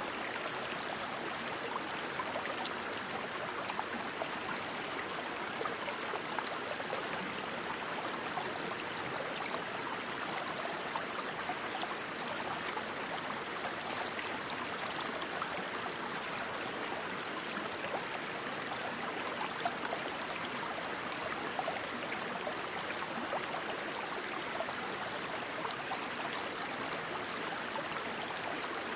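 Rushing stream water flowing steadily, with short high-pitched chirps scattered throughout and a brief trill about halfway through.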